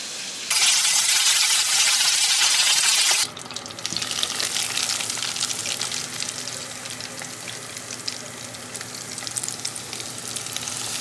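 Chicken frying in hot oil, sizzling: a loud, dense hiss for the first few seconds cuts off suddenly and gives way to a steadier sizzle with many small crackles. That sizzle is the sign the grease is hot enough for the chicken to come out crisp rather than soggy.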